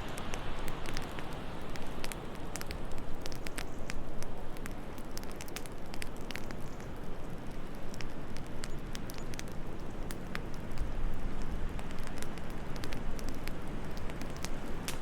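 Fireplace wood fire crackling, with many small sharp pops scattered over a steady low hiss.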